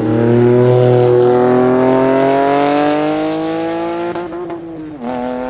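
Car engine accelerating hard, its pitch climbing steadily for about four seconds, then dropping at a gear change near the end and starting to climb again.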